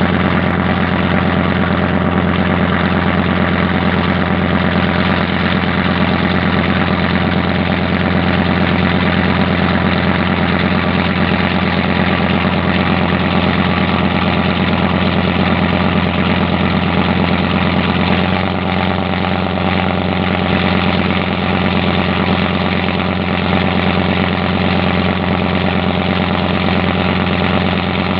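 A boat's engine running steadily at a constant speed, with a deep hum and a slight change in its note about two-thirds of the way through.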